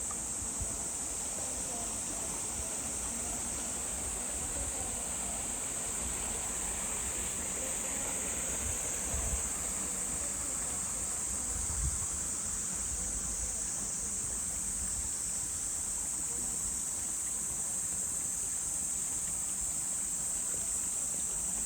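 Summer insects keeping up a steady high-pitched drone over a soft wash of flowing stream water, with a couple of faint low thumps about nine and twelve seconds in.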